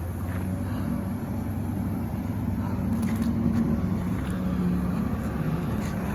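An engine running steadily with a low drone, and a few light clicks over it.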